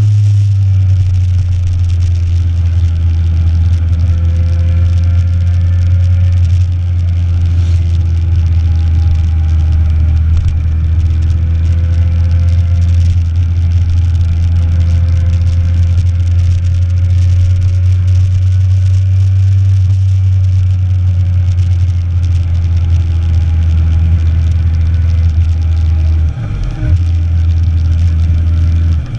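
Motorcycle riding at speed: a steady rush of wind noise on the microphone, with the engine's note faintly underneath, slowly rising and falling. There are two brief dips near the end.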